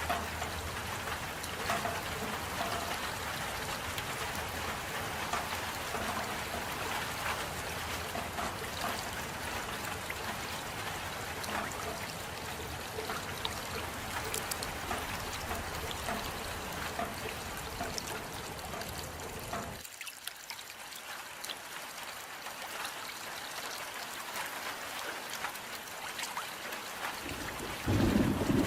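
Steady rain falling, a dense hiss full of small drop ticks. About two-thirds of the way through, the low part of the sound drops away and leaves a thinner, higher hiss. Near the end a louder low rumble comes in.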